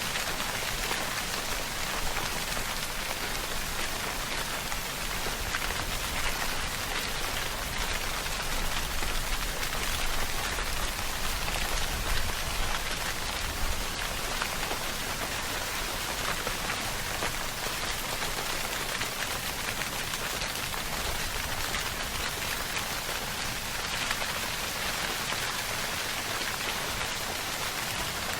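Steady rainfall, a dense even patter of drops on a surface.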